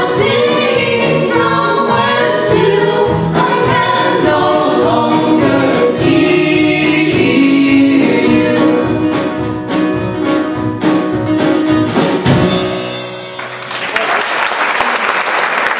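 Live song with several voices singing together over instruments, ending about 13 seconds in; audience applause follows at once.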